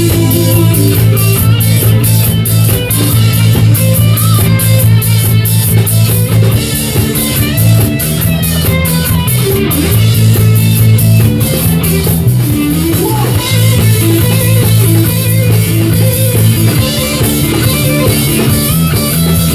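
Live rock band playing an instrumental break with guitar and drum kit, loud and steady, with no singing.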